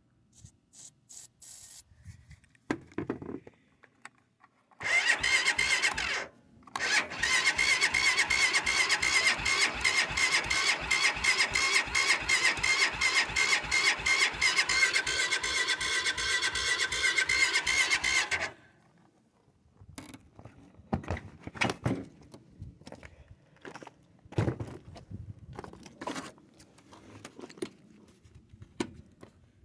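Car engine cranking on its starter motor on a cold start: a whining starter with an even chug about three times a second, running for about thirteen seconds with a short break near the start, and the engine never catches.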